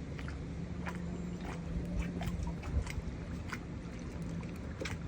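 Boat motor running steadily at low speed with a low, even hum, while the boat is manoeuvred toward the ramp. Scattered light ticks sound over it.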